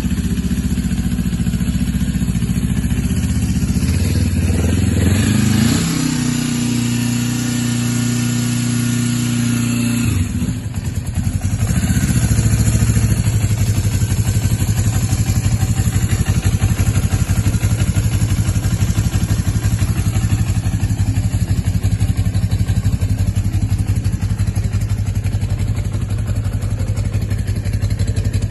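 1980 Yamaha XS250's air-cooled four-stroke parallel-twin engine running. It revs up about four seconds in and holds a higher speed for a few seconds, drops back about ten seconds in, then idles steadily with an even pulse.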